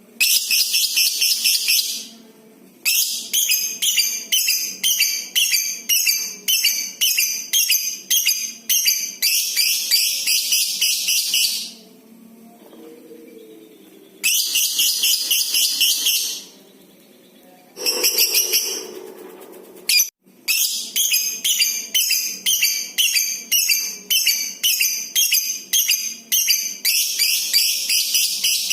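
Lovebird giving long, shrill chattering bouts (the 'ngekek' call prized by keepers): rapid high-pitched notes pulsing about twice a second. The bouts are broken by short pauses, and the longest runs about eight seconds.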